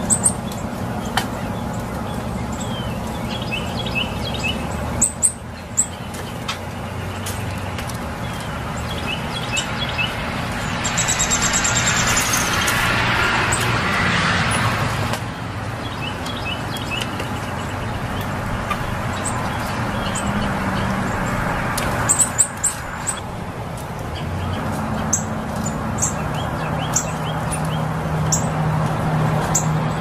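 Small birds chirping in short, high bursts over a steady outdoor background hum. About eleven seconds in, a louder rushing sound swells and fades away by about fifteen seconds.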